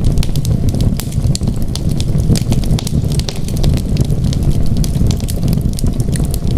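Wood fire crackling in a fireplace: frequent, irregular small pops and snaps over a steady low rumble.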